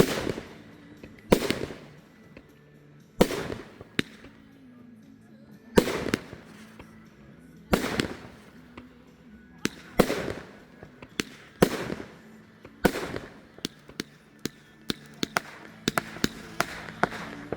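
Fireworks going off: a sharp bang every two seconds or so, each trailing off in crackle, then a quicker string of cracks and pops in the last few seconds.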